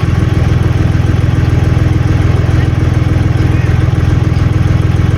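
Three-cylinder air-cooled Deutz diesel of a Ditch Witch 5010 running steadily, with a fast, even low beat.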